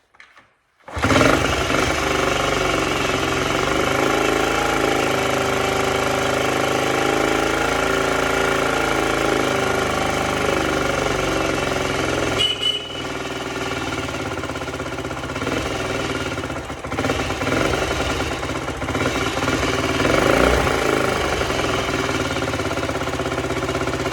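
The freshly rebuilt 1977 Honda CT90's small four-stroke single-cylinder engine catches about a second in and runs steadily, its pitch shifting a few times in the second half. The owner says the engine needs adjusting because it does not yet idle.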